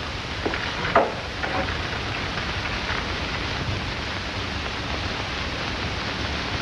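Steady hiss of an old film soundtrack, with a few short knocks in the first second or so, the sharpest about a second in.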